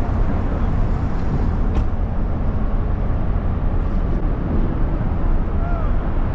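MG Midget's small four-cylinder engine running steadily, a continuous low rumble heard from inside the open-top car.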